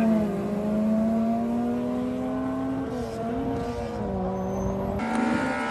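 Race car engine held at steady high revs, its pitch drifting slowly upward and dipping briefly about three seconds in, with an abrupt change near the end.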